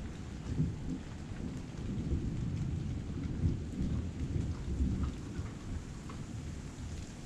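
Heavy rain falling, with a continuous low rumble under it and scattered small drip ticks.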